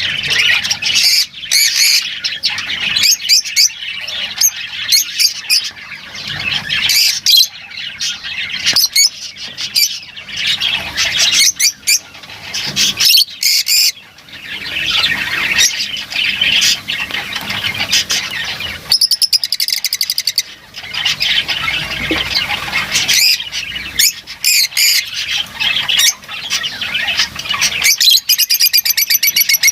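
Lovebirds chattering: a dense, unbroken run of shrill squawks and chirps, with a fast buzzing trill about two-thirds of the way through and another near the end.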